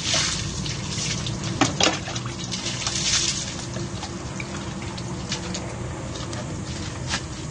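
Water splashing in several bursts as it is poured by hand from a dipper over a motorbike to rinse off the soap.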